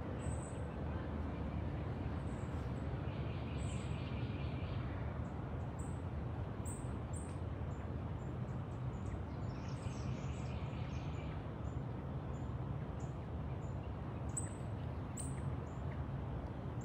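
Wild birds chirping repeatedly in short high notes, with two longer rapid trills about three and ten seconds in, over a steady low background noise.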